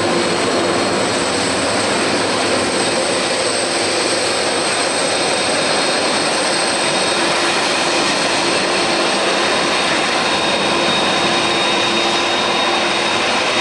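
Jet noise from a Boeing 767-300ER's two GE CF6-80C2 turbofan engines: a loud, steady roar with a thin high whine on top.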